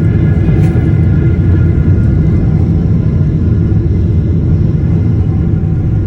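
Airplane landing: a loud, steady low rumble of aircraft engine and airflow noise, with a faint steady whine above it.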